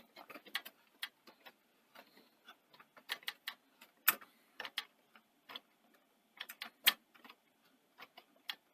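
Irregular sharp clicks and taps, the loudest about four and seven seconds in: an Allen key working the screws of the upper head drum on a Sony SL-C6 Betamax deck.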